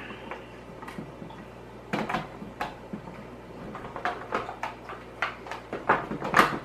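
Hard plastic media basket of a canister filter being handled and shifted on a table, giving scattered light knocks and clicks, the loudest near the end.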